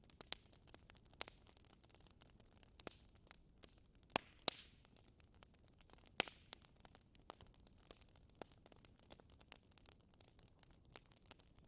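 Fire burning in a fireplace, crackling quietly: scattered sharp pops and snaps over a faint hiss, with a few louder snaps around four to six seconds in.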